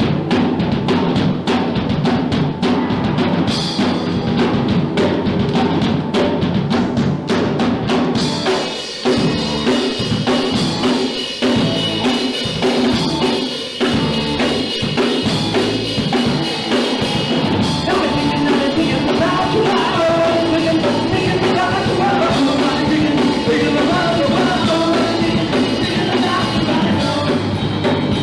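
Live punk rock band playing loud, with pounding drums, distorted guitars and shouted vocals, heard through a small camera microphone; about eight seconds in the sound fills out as the full band comes in harder.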